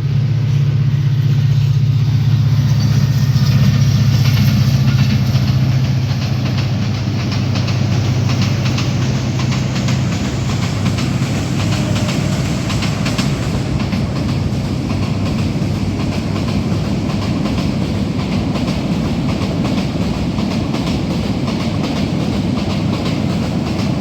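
A train running past, with a strong low locomotive engine drone for about the first ten seconds. After that the wheels on the rails carry on as a steady clatter with faint rhythmic clacks.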